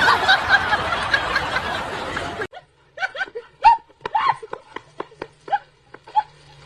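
Laughter: a loud, dense stretch of laughing for about two and a half seconds, then after an abrupt cut, short separate bursts of snickering.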